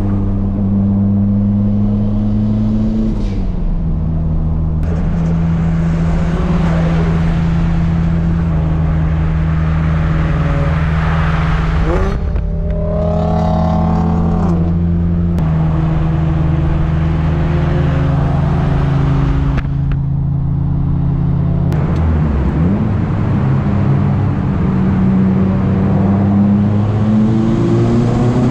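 Nissan SR20DET turbocharged four-cylinder engine of an S13 Silvia heard from inside the cabin, running at steady cruising revs with road noise under it. The engine note drops a few seconds in, holds, and climbs again over the last few seconds as the car accelerates.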